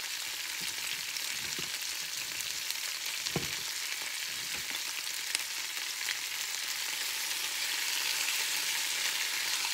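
Chicken strips, onions and bell peppers sizzling steadily in a hot cast-iron skillet. The sizzle grows a little louder over the last few seconds as a wooden spatula stirs the pan, and a couple of light knocks come in the middle.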